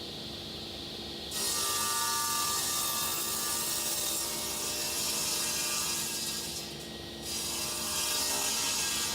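Thickness planer running, then cutting Marri timber: a loud hiss of the cutter head through the board starts about a second in. It drops away briefly about two-thirds through, then comes back as the wood feeds through again.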